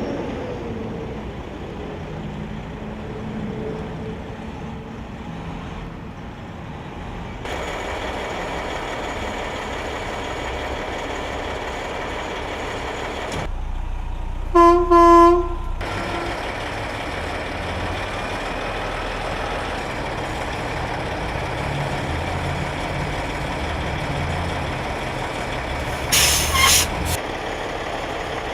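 Heavy military truck diesel engines running steadily. About halfway through, a truck horn sounds two short blasts, and near the end there is a brief hiss of compressed air from an air-brake release.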